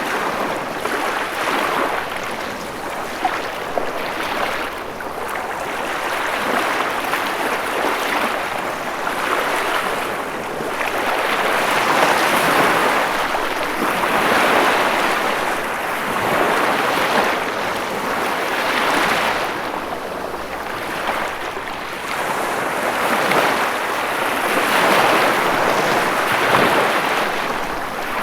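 Ocean waves breaking and washing on a shore, a continuous rush of surf that swells and ebbs every few seconds.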